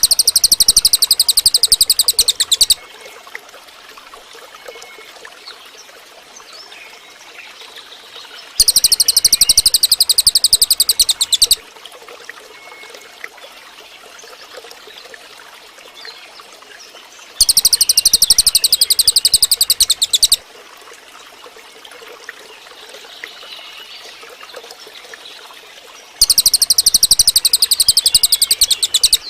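Cililin bird giving a fast, high-pitched buzzy trill, four times at about nine-second intervals, each trill lasting about three seconds. A quieter trickle of water runs beneath and between the trills.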